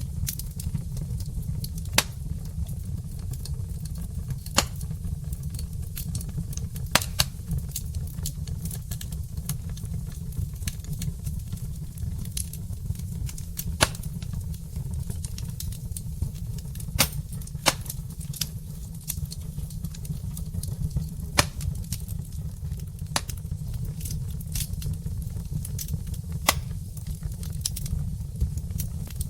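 Wood fire burning in a fireplace: irregular sharp pops and crackles from the burning logs, every second or few, over a steady low rumble.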